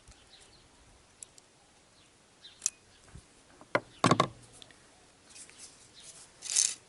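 Small metal parts of a car heater blower motor being handled at the bench: a few scattered clicks, a pair of louder knocks a little past the middle, then short scraping or rubbing strokes near the end.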